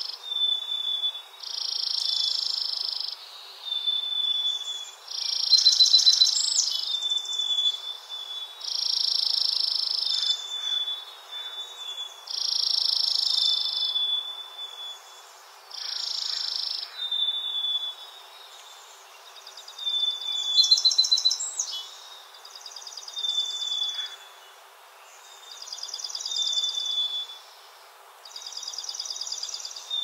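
A songbird singing a repeated high, buzzy trill, each phrase a second or two long and ending in a short whistled note, about every three and a half seconds. The phrases grow fainter in the second half.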